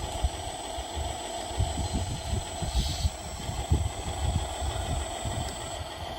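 Radio-controlled scale dump truck running: a steady mechanical hum with a thin high whine that cuts off near the end, over irregular low rumbling and small knocks.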